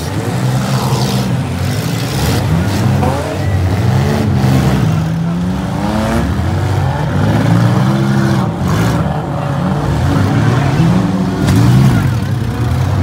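Several demolition derby cars' six-cylinder engines revving up and down repeatedly as they drive and ram on a dirt track, with a few sharp bangs.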